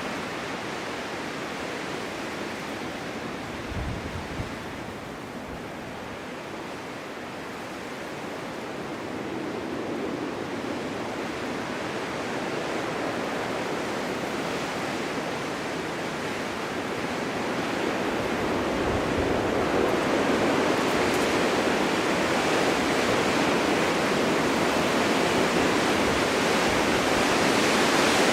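Winter wind blowing in a steady rushing noise, easing slightly a few seconds in and then building to a stronger, fuller gust over the second half, with a couple of brief low bumps.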